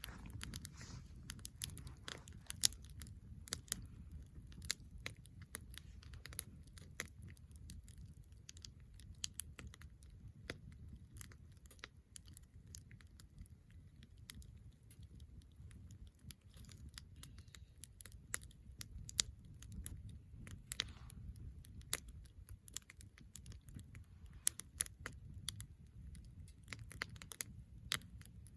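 Wood fire burning in a Snow Peak fire pit: irregular sharp crackles and pops of burning firewood over a low steady rumble.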